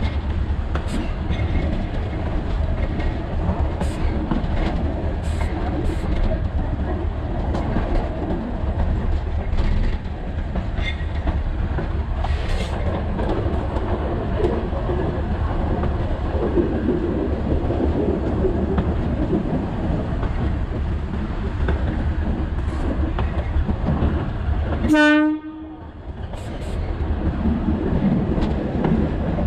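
Alishan Forest Railway train running, heard from the cab: a steady rumble with scattered clicks of wheels over the rails. A short horn blast sounds about 25 seconds in, and the running noise drops away just after it and builds back up.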